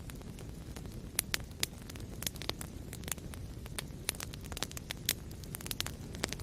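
Wood fire burning in a fireplace: a steady low rumble of flame with sharp crackles and pops scattered irregularly, several a second.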